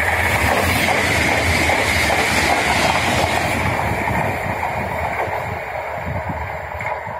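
A passenger train passing at speed, its wheels running on the rails. The noise fades over the last few seconds as it moves away.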